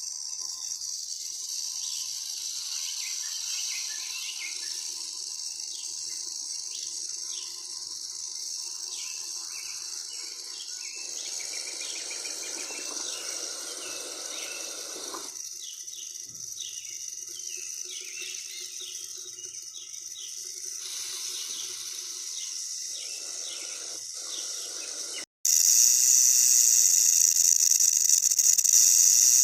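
Outdoor nature ambience: a steady high insect drone with many short bird chirps over it. About 25 seconds in it cuts to a louder, steady hiss.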